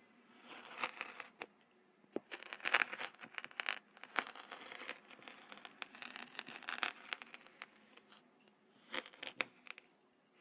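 Kinetic sand being handled close to the microphone: runs of crunching and crackling with many sharp ticks, in several stretches with short pauses between, the last short run about nine seconds in.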